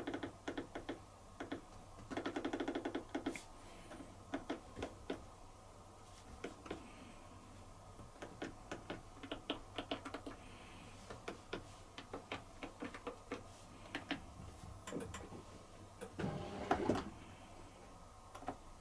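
Irregular clicking of push buttons being pressed on a Bosch dishwasher's control panel, with a short buzzing rattle about two seconds in and a louder bump near the end.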